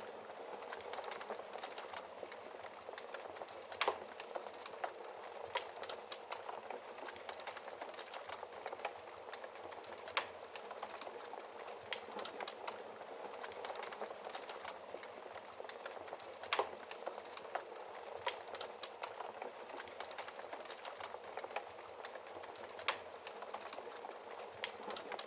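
Fire burning in a fireplace, crackling steadily, with scattered small snaps and four louder pops spread a few seconds apart.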